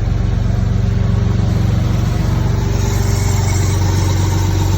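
Toyota Supra's 2JZ twin-turbo straight-six engine idling steadily.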